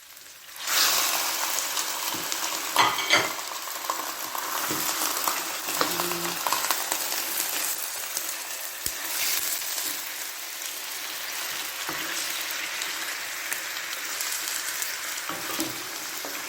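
Chicken frying with onions and garlic in a hot pan: a loud sizzle starts suddenly just under a second in and runs on steadily, with a few knocks of a stirring utensil against the pan.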